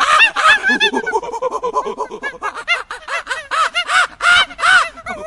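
A flock of birds calling together: many short, pitched calls overlapping, several a second, with the loudest calls near the end.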